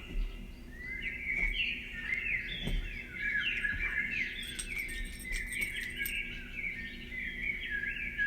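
Many small birds chirping at once, a dense, continuous chorus of short overlapping calls, over a faint steady low hum.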